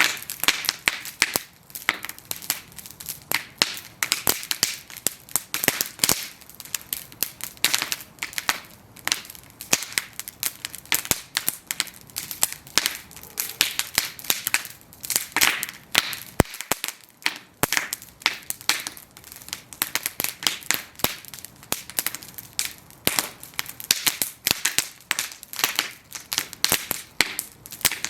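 Bonfire of wooden planks burning, the wood crackling and popping in dense, irregular snaps with a soft hiss beneath.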